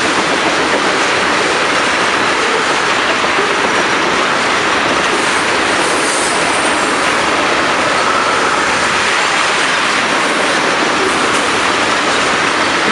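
Freight train of tank cars rolling past: a loud, steady rush and rattle of steel wheels on the rails, with a faint wheel squeal about halfway through.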